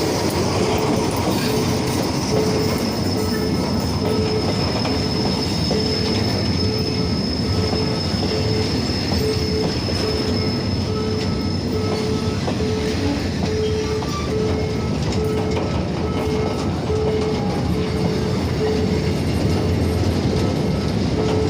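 Train running on the tracks with a steady rumble and a high wheel squeal over roughly the first half. A short tone repeats about one and a half times a second throughout.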